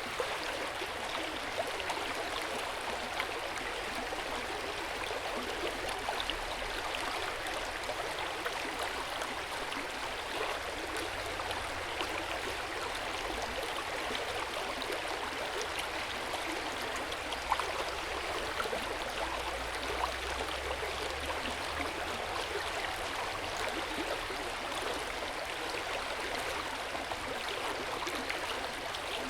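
Hot spring water pouring steadily into an open-air bath, a continuous splashing and trickling with small scattered droplet sounds.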